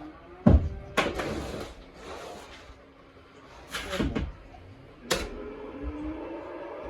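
Feed being handled: knocks and bangs of containers, with grain rustling and pouring in a few short stretches. Near the end a cow moos, a long low call that sags in pitch.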